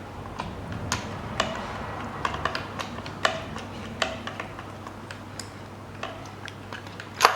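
Irregular small clicks and taps of spark plugs and a magnet being handled, with one sharper click near the end.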